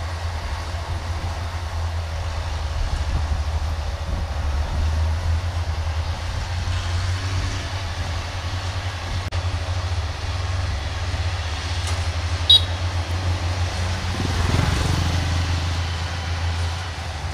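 Kubota DC-105X combine harvester running steadily with a deep, even engine hum. About twelve and a half seconds in there is one sharp, short high-pitched click, and the machine swells briefly louder a couple of seconds later.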